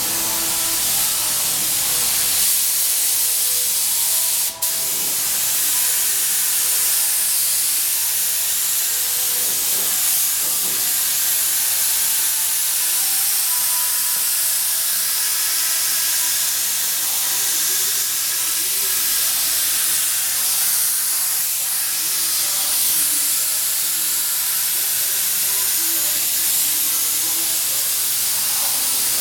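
Compressed-air mini paint spray gun spraying automotive paint: a loud, steady hiss of atomising paint, with a brief break about four and a half seconds in.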